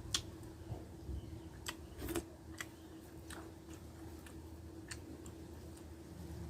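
Close-up eating sounds from a person chewing rice and dried fish: scattered wet mouth clicks and smacks, about half a dozen in a few seconds, over a steady low hum.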